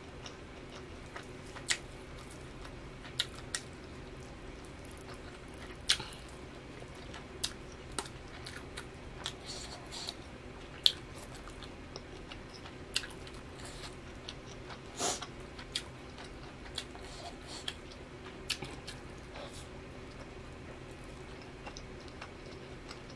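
Close-up eating sounds of a person chewing pan-fried chicken, with sharp wet smacks and clicks of the mouth and fingers at irregular moments. A low steady hum runs underneath.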